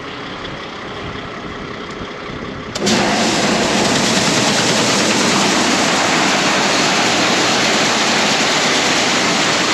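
A semi truck's engine running steadily. About three seconds in, a much louder, even rushing noise takes over abruptly.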